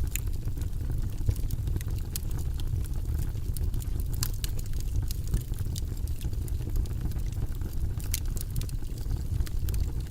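Wood fire burning in a fireplace: a steady low rumble of the flames with irregular sharp crackles and pops from the burning logs, a few louder snaps scattered through.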